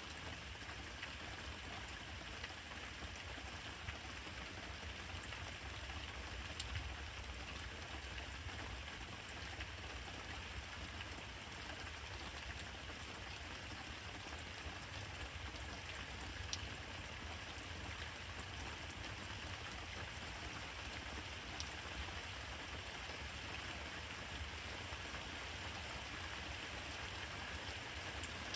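Steady rain falling, an even hiss with a few sharp drips landing close by, over a steady low rumble.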